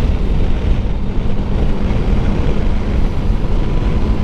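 Motorcycle on the move: steady engine and road noise under heavy wind rush on the microphone.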